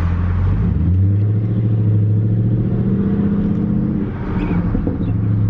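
Naturally aspirated 5.0-litre V8 of a 2011 Jaguar XK running with its mufflers deleted, giving a loud, deep, steady exhaust drone under way that dips briefly about four seconds in. The engine is not yet fully warmed up.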